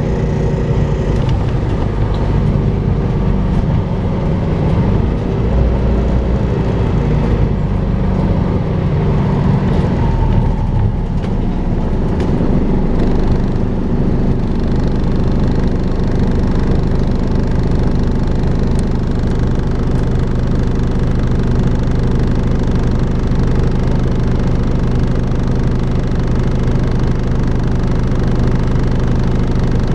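Volvo B5LH hybrid double-decker bus running, with the vacuum-cleaner-like 'hoovering' sound this bus is known for. Its pitch shifts and falls over the first dozen seconds, then settles into a steady hum for the rest.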